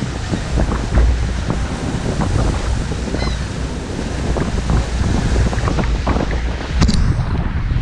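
Lake waves washing and splashing against the shore, with strong wind buffeting the microphone in a steady low rumble. A sharper splash stands out near the end.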